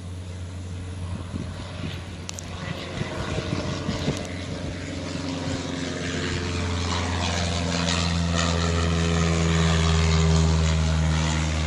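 Light single-engine propeller airplane's engine and propeller on the takeoff run, a steady drone that grows steadily louder.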